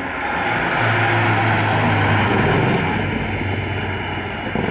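Rally car engine running hard, its steady note growing louder over the first second and holding.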